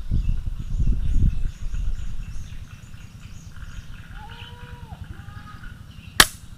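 Single sharp crack of a PCP bullpup air rifle firing near the end, the loudest sound here. It comes after a low rumble in the first two seconds and a dove's short, low coo about four seconds in, with faint bird chirps behind.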